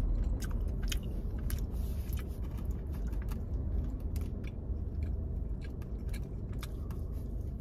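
Mouth-close biting and chewing of a buttery, flaky pastry: scattered small crunches and clicks over a steady low rumble of the car cabin.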